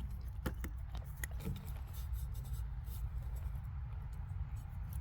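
Small handling noises: scattered light clicks and short rubbing sounds, as of wires and a tester being handled, over a steady low hum.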